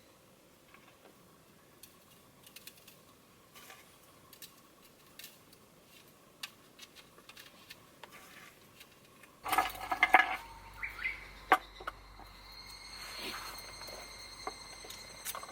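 Faint scattered ticks, then about two-thirds of the way in a run of sharp clinks and knocks of metal and glass tableware being handled, some of them ringing briefly.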